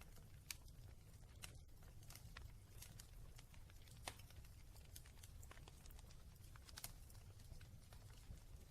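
Fire in a fireplace crackling faintly: irregular small pops and snaps over a steady low rumble.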